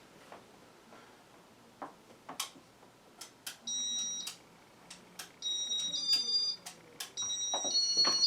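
Casablanca IntelliTouch fan control clicking as its buttons are pressed. From about halfway in, it gives a run of electronic beeps that step up and down in pitch as demo mode runs.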